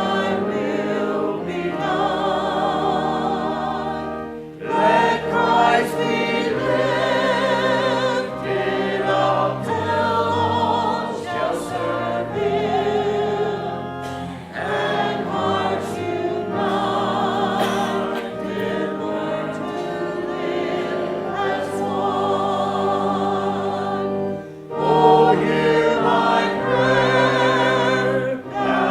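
Church choir and congregation singing a hymn together over sustained instrumental accompaniment, in phrases with short breaths between lines.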